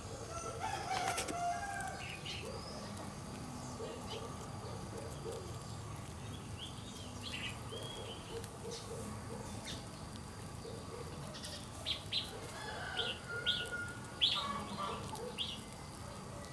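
Bird calls: a run of short, evenly repeated low notes, with short high chirps that grow more frequent and louder over the last few seconds.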